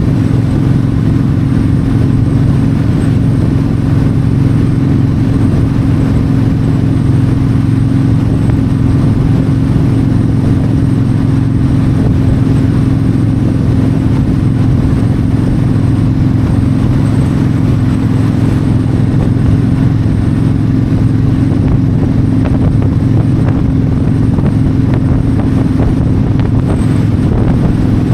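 Yamaha V-Star 1300's V-twin engine running at a steady cruising speed, with wind rush over the microphone.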